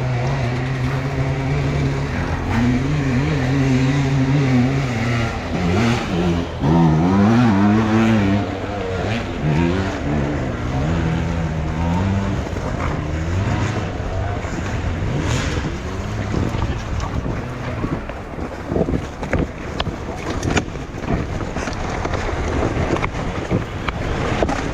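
Enduro motorcycle engine running, steady at first, then revved up and down repeatedly for several seconds. Later the engine note breaks up among many short knocks and clatter.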